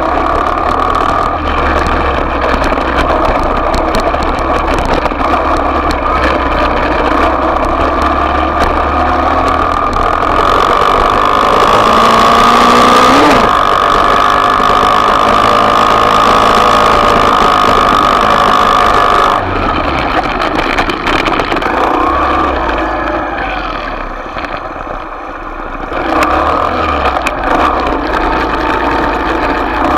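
Small off-road motorbike engine running and revving: it climbs and holds at high revs for several seconds in the middle, drops off, eases to a low point, then picks up again near the end.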